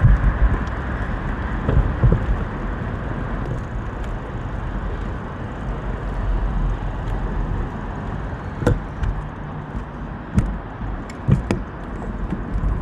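Steady low rumble and wind noise of riding an e-bike, with a few sharp knocks and rattles scattered through, louder near the end.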